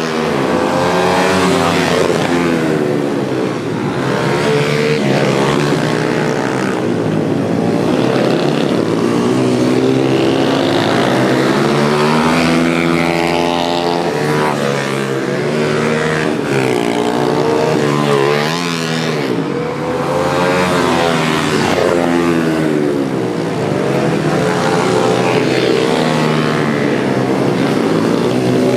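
Several pit bikes racing, their small engines revving hard and overlapping. The engine notes repeatedly rise in pitch and drop back as the bikes accelerate and shift.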